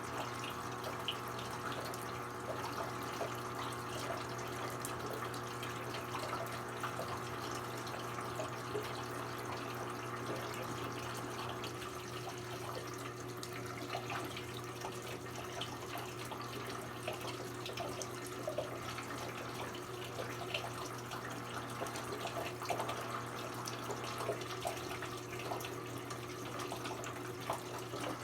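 Brastemp BWK17 17 kg washing machine partway through its quick cycle: water running and splashing inside the drum, over a steady low hum and a few constant tones from the machine.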